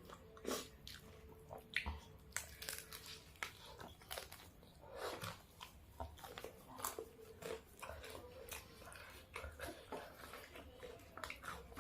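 Close-miked eating: crunchy bites and wet chewing of fried chicken with raw lemon basil leaves, in many short, irregular crunches.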